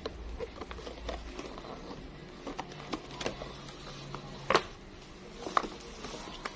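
Irregular small clicks and taps of objects being handled, with two sharper knocks about four and a half and five and a half seconds in.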